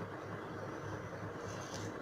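Steady low hum of background room noise, with a faint rustle of fabric being folded near the end.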